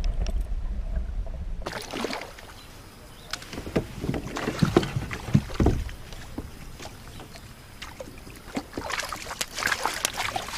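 Water splashing and sloshing beside a kayak, with irregular knocks and clatter of gear against the hull, as a hooked brook trout is brought to the boat. A low rumble at first gives way to the splashing about a second and a half in.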